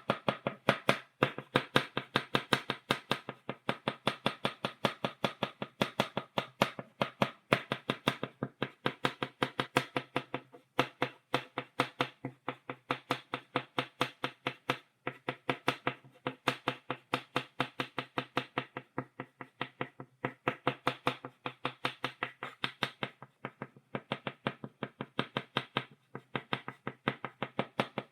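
Chalk tapped against a blackboard, dotting in quick repeated taps, several a second, with brief uneven pauses.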